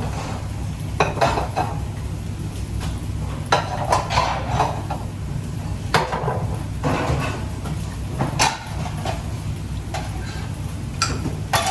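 Kitchen utensils knocking and clinking against pots and pans, about ten separate clatters at uneven intervals over a steady low hum.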